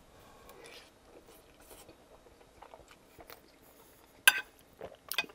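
Close-miked, faint chewing of a mouthful of pasta, then a metal fork clicking and scraping against the plate twice, about four and five seconds in; the fork sounds are the loudest part.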